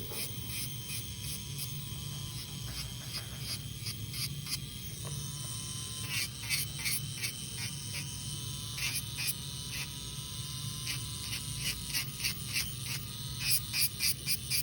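Electric nail file (milling machine) running with a steady high whine that dips in pitch whenever the bit bears on the nail, as gel polish is filed off. Rhythmic scratching strokes of the bit come more often from about six seconds in.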